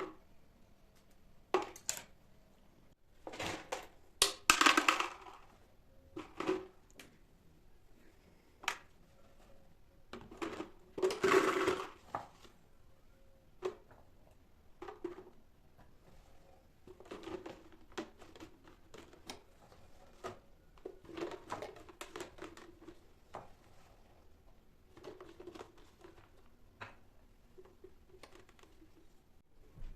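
Kitchen handling sounds: scattered clicks and knocks with a few short rustling or scraping bursts, the loudest about four and eleven seconds in.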